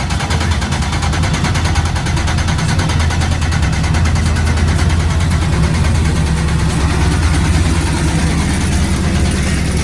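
Truck engine idling loudly and steadily, with an even low exhaust note.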